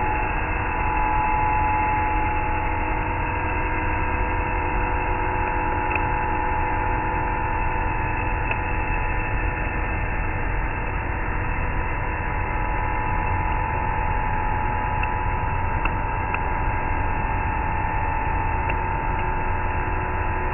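CNC bridge mill machining a steel plasma-table frame: a steady cutting whine that shifts slightly in pitch about a second in, over a constant machine noise, with a few faint ticks.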